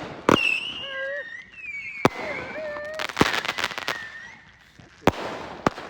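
Consumer fireworks going off: about five sharp bangs spread through a few seconds, with wavering whistling tones in between.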